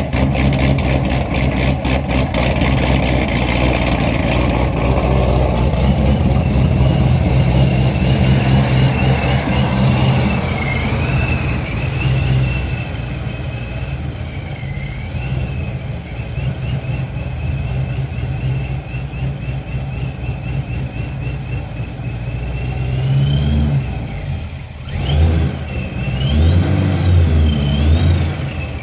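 Supercharged C6 Corvette's cammed LS V8 running at a choppy, lumpy idle, with a steady high-pitched whine from its ProCharger centrifugal blower. The idle drops and settles about twelve seconds in, and near the end a few short throttle blips make the engine and the whine rise and fall.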